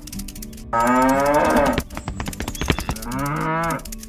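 Cow mooing: two long moos of about a second each, with a quick run of sharp clicks between them.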